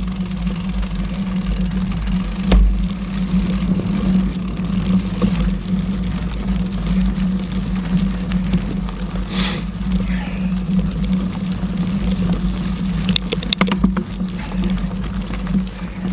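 Mountain bike rolling over a dirt trail, with a steady rumble of tyres and wind on the microphone. A quick run of rattling clicks about 13 seconds in.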